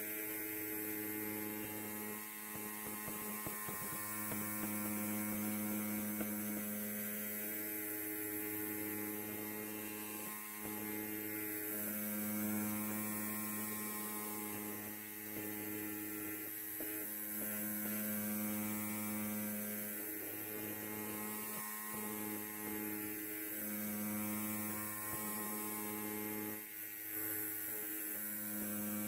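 Electric hair clipper buzzing steadily at a low pitch, its strength wavering slightly every few seconds.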